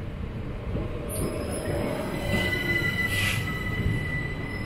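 Southern Class 377 Electrostar electric multiple unit moving slowly past along the platform, with a low rumble from its wheels on the rails. From about two seconds in a high, steady wheel squeal rises above the rumble, and a brief hiss comes about three seconds in.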